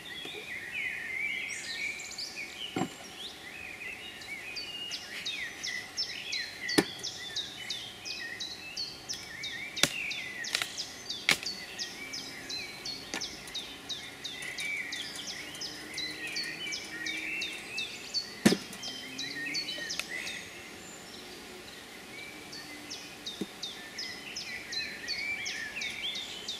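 Birds chirping busily throughout with many short, quick downward-sweeping notes, over a few sharp knocks of wooden beehive boxes being lifted and set down, the loudest about two thirds of the way through.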